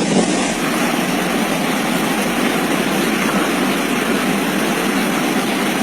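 Fast-flowing storm floodwater rushing, a loud steady noise with no break.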